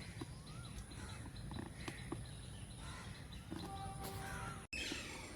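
Faint scattered bird calls: short chirps and whistled notes, with a brief cut-out of the sound a little before the end.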